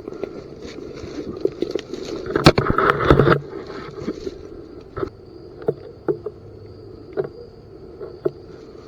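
Footsteps and rustling through brush and dry leaves, with a louder burst of crashing and rustling a little over two seconds in, then scattered single cracks, like twigs snapping underfoot.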